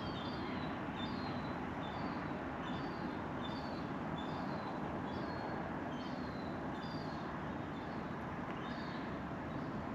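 A small bird chirping over and over, short falling chirps coming a little more than once a second, over a steady background hiss.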